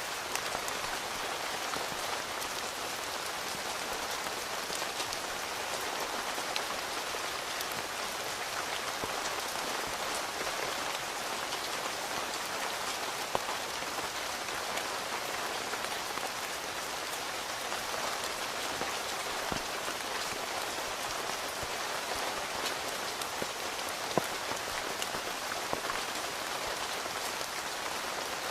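Steady rain drumming on a tent's fabric, heard from inside, with scattered individual drops ticking close by; two sharper drop hits stand out, one about halfway through and one near the end.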